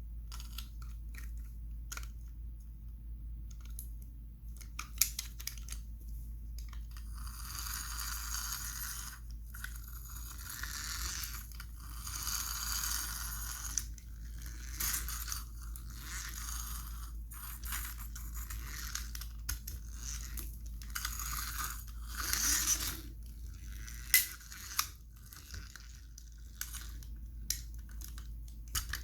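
Toy cars and trucks being handled and played with in play-dough: scattered clicks, knocks and scraping, with a few sharper clicks, over a steady low hum.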